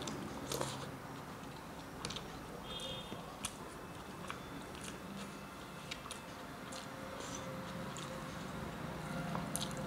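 Close-up chewing of a mouthful of rice, with scattered small wet clicks and smacks of the mouth.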